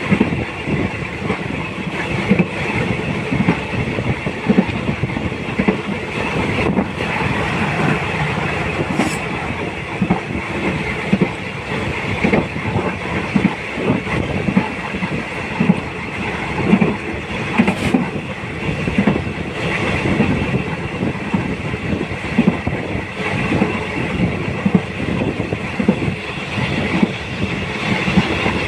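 A moving train running along the track, with steady rumble and rail noise and the wheels clicking and knocking over the rail joints.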